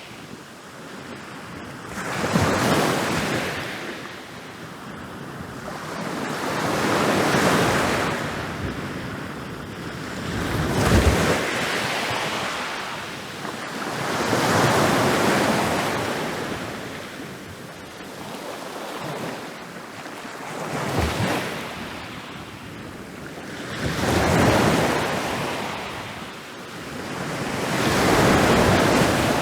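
Ocean waves rolling in and breaking on a beach, each one swelling into a rush of surf and fading, about every four to five seconds. A few breaks land with a sharper crash.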